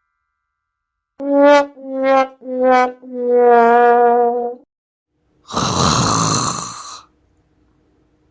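Sad trombone sound effect: three short brass notes stepping down in pitch and a long fourth note, the classic 'wah wah wah waaah' that signals failure or disappointment. About five and a half seconds in, a noisy rushing sound follows for about a second and a half.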